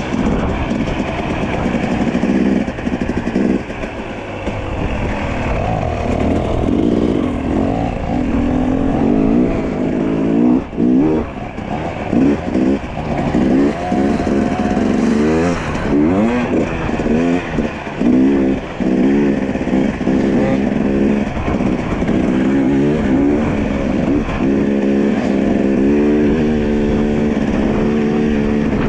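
Dirt bike engine running under load, its pitch rising and falling again and again as the throttle is worked and gears change, then holding steadier near the end.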